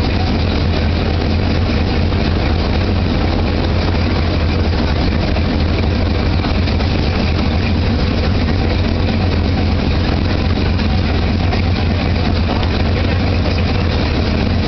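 A vehicle engine running steadily at low speed, a constant low drone that doesn't change.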